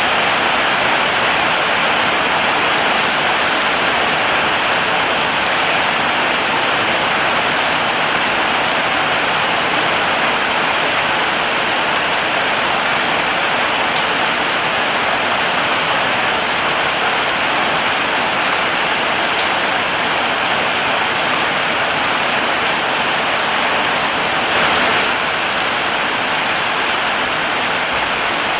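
Heavy rain falling in a steady, even hiss, with a slight swell near the end.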